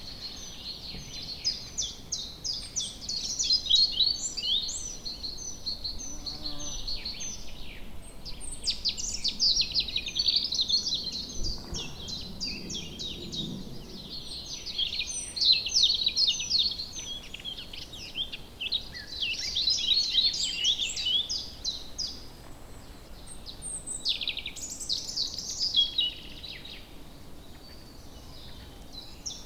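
Several songbirds singing at once, a dense chorus of quick, high chirps and trills overlapping one another, thinning out near the end.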